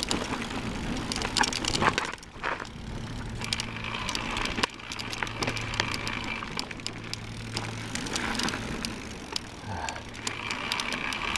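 Electric mountain bike ridden along a dirt trail: tyres crackling and rattling over loose ground, with a low steady hum that drops out a few times and a higher whine now and then.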